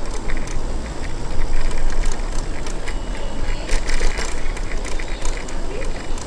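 Riding noise from a bicycle on the move: steady wind rush on the microphone and tyre noise, with scattered clicks and rattles.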